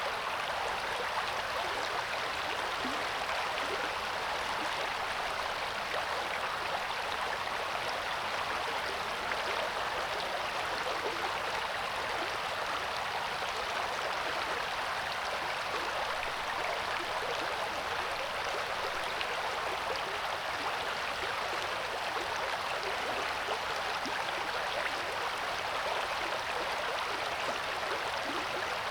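River water rushing and babbling over rocks in a steady, even flow.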